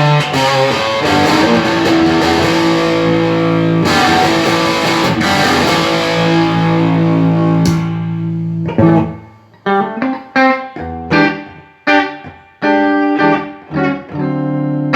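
Electric guitar played through a Yamaha T100C tube amplifier, tested after repair, with a distorted tone. Long ringing chords give way, about nine seconds in, to a run of short, choppy chord stabs.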